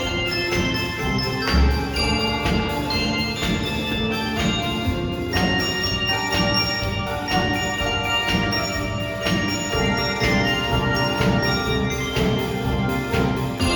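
Handbell choir playing a pop song arrangement: many bells ringing in chords and runs, with strong low notes underneath.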